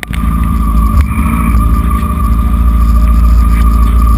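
Racing motorcycle engine running steadily under a heavy low rumble, loud and without pauses.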